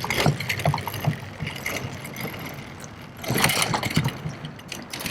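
Boonedox Landing Gear kayak wheels rolling over rough, potholed asphalt, with irregular knocks and rattles, growing louder for a moment about three seconds in.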